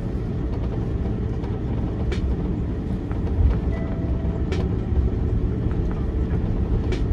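Airbus A330-300 cabin noise while taxiing after landing: a steady low rumble of engines at idle and rolling gear, with a few faint clicks from the cabin fittings.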